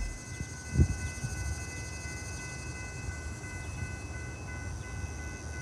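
Low, steady rumble of a Metra commuter train, with a single thump about a second in. Faint steady high-pitched tones run over it.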